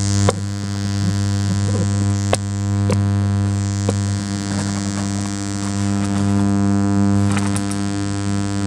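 Bauhn BH900 powered bookshelf speaker giving off a steady slight hum, pitched low with many overtones, and a few light clicks. The hum comes from a failing, bulging capacitor in the speaker's built-in amplifier.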